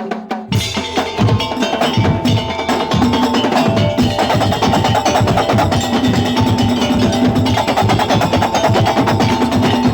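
Madurese daul (tong-tong) percussion music: a dense, fast rhythm of wooden and drum strokes with gong-like pitched tones over it, coming in at full strength about half a second in.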